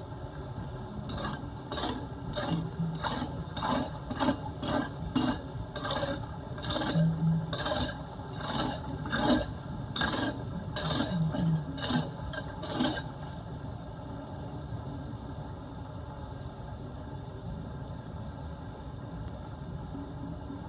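Rapid repeated scraping strokes, about two a second, as debris is scraped away from a clogged street drain; they stop about thirteen seconds in, leaving a steady hiss.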